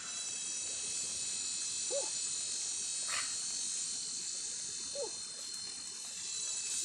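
Steady, high-pitched drone of forest insects such as crickets or cicadas, with two short, low animal calls about three seconds apart.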